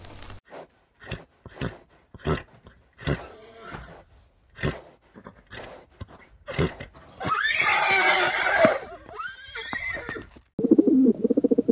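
Horses: a string of short sharp sounds, then a loud wavering whinny about seven seconds in and a second, shorter call just after. Near the end a rock pigeon starts cooing.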